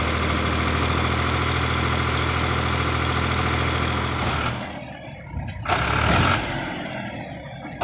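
Eicher 557 tractor's diesel engine running steadily, then dropping away about four seconds in. About a second and a half later comes a short, loud hissing rush.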